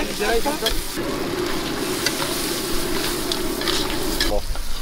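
Crabs frying in oil and masala in a wide metal pan, sizzling steadily, with a metal spatula scraping and clinking against the pan as they are stirred. The sizzling cuts off abruptly near the end.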